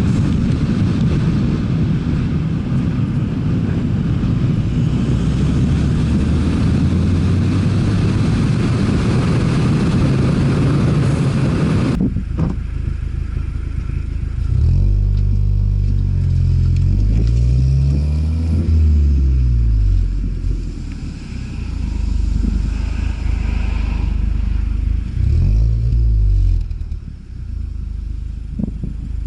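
Ford Fiesta ST engine. For the first twelve seconds it runs steadily under a loud rush of noise, as when driving. After an abrupt cut it is revved up and down several times, with one more short blip near the end.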